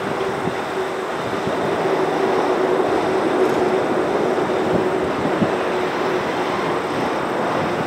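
Hopper cars of a long freight train rolling past, a steady rumble of wheels on rail with scattered knocks. A faint steady tone runs under it and fades out about six seconds in.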